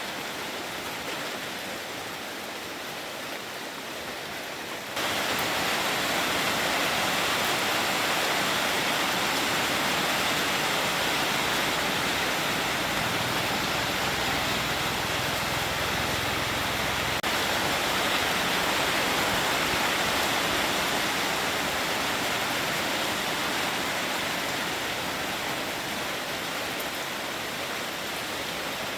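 Heavy rain falling in a steady downpour, getting suddenly louder about five seconds in.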